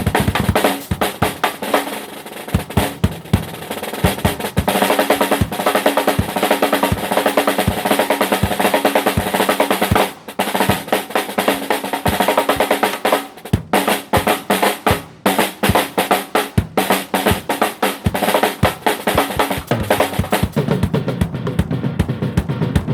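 Drum kit played busily with quick snare rolls and bass drum hits, over steady pitched tones from another amplified instrument; the playing drops out briefly about ten seconds in.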